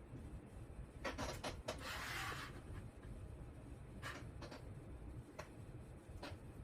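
Light handling noises of plastic wire wrap being worked onto a wire: a few soft clicks about a second in, a short rustling scrape about two seconds in, then scattered single clicks.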